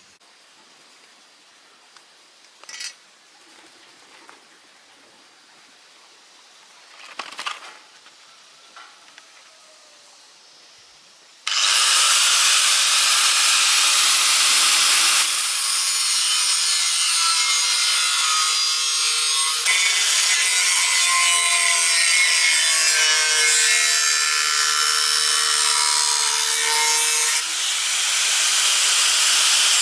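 Angle grinder cutting an iron bar: after a few faint knocks, it starts suddenly about a third of the way in and runs on with a loud, steady hiss, its motor tone shifting a little under load. It dips briefly near the end.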